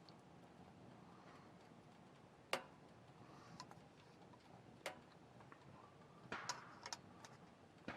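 Quiet wood fire crackling: a few sharp pops and snaps over a low background, the loudest about two and a half seconds in and a quick cluster of them near the end.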